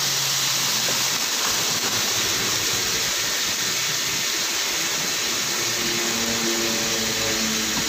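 Steady sizzling hiss of margarine and frozen mixed vegetables frying in a hot wok.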